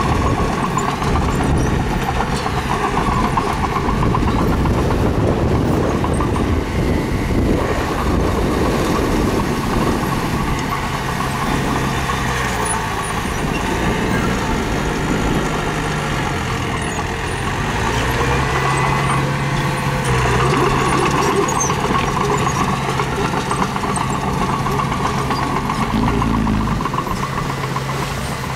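Diesel engine of a mini bulldozer running continuously under working load, its engine speed shifting now and then as it pushes stone.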